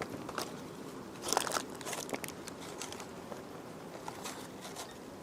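Someone eating a green chile cheeseburger close to the microphone: scattered crackles and crunchy clicks of biting, chewing and the burger's wrapper, busiest about a second and a half in, over a low steady room hum.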